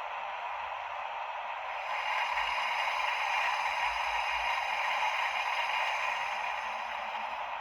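Sound decoder of a Piko H0-scale EU07 electric locomotive model playing a steady rushing locomotive sound through its small speaker, with no low end. It grows louder about two seconds in and eases back near the end.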